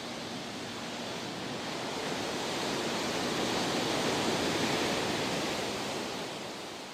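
Ocean surf: a wave rushes in, swelling to a peak about four seconds in, then falls away.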